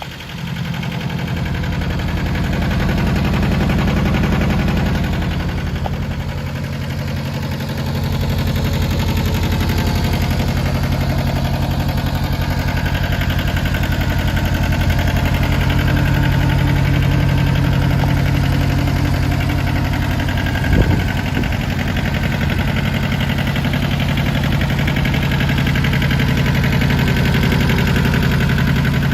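John Deere 650 compact tractor's Yanmar diesel engine running steadily. It gets louder in the first second and dips briefly around six to eight seconds in. There is a short, sharp clatter about twenty-one seconds in.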